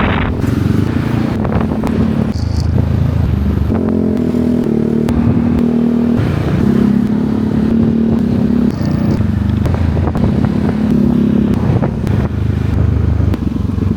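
A motorbike engine running steadily while riding, its note shifting up and down a few times.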